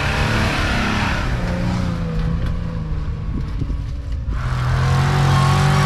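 Jeep Wrangler engine running as it crawls along a sandy off-road trail, its pitch wavering slightly. About four seconds in the sound cuts abruptly to a louder, steadier engine drone.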